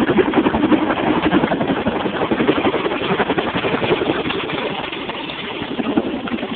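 RAF Chinook tandem-rotor helicopter in display flight: its twin rotors give a loud, fast, steady beat over the turbine noise, dipping slightly about five seconds in and then building again. Heard through a phone's microphone.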